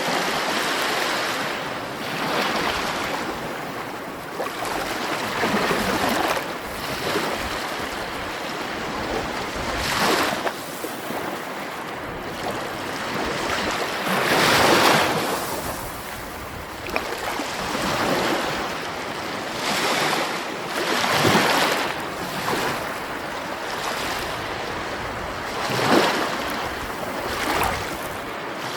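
Sea waves breaking and washing on a shore, a steady surf rush that swells louder every few seconds as each wave comes in.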